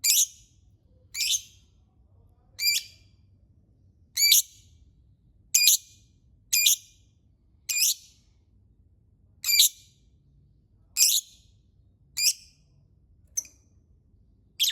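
Lovebird giving short, shrill, high-pitched calls, about a dozen of them, each a single sharp note repeated every second or so.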